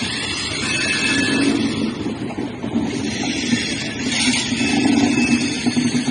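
A train running along the rails with a steady rumble. Thin high whining tones come and go over it.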